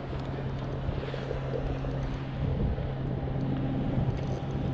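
A steady low engine drone, one unchanging pitch with an overtone, that stops just after the end, over a haze of wind and water noise.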